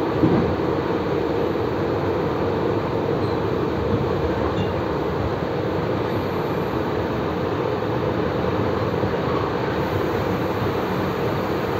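Passenger train running at speed, heard from inside the carriage: a steady rumble and rush of wheels on rails, with a brief knock just after the start.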